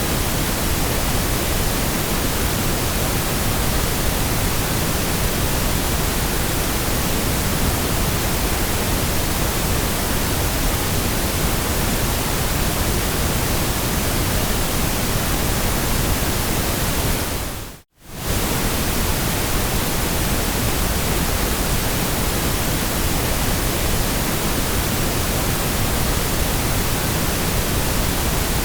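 Steady, even hiss of generated noise spread across all pitches. About 18 seconds in it fades out to silence for a moment and comes straight back.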